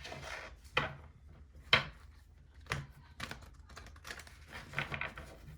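A handful of light, sharp clicks and knocks at uneven spacing, roughly a second apart, with soft rustling between them, as of small objects being handled.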